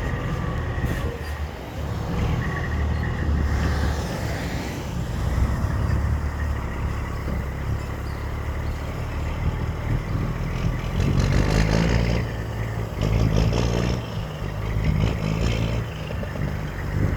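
Road traffic: a motor vehicle engine running steadily, with vehicles passing several times in the second half.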